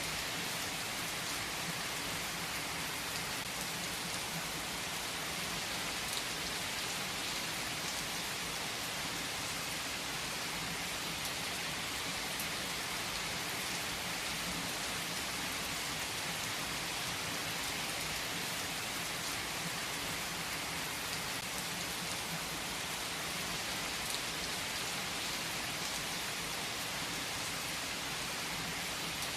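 Steady rain falling and pattering on a surface, an even hiss with occasional faint ticks of individual drops or crackles.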